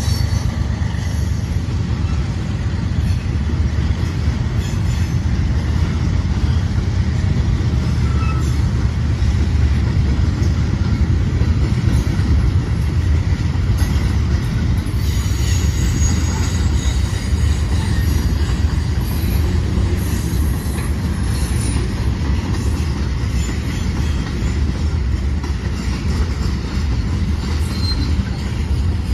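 Freight cars of a passing manifest train rolling by, their steel wheels running on the rails with a steady rumble. A high-pitched wheel squeal rises over it about halfway through.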